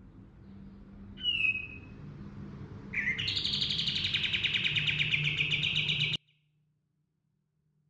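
Kapas tembak songbird singing: a short whistled note about a second in, then a long, rapid rolling trill that starts about three seconds in and cuts off suddenly near six seconds.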